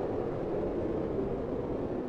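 Steady wind ambience: a low, even rushing with a hollow tone that drifts slowly in pitch, without gusts or breaks.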